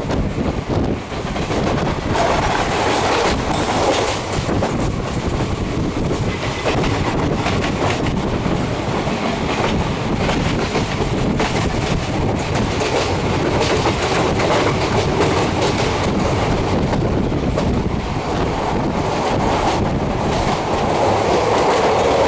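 Passenger train running steadily, its wheels clicking over the rail joints under a continuous rumble.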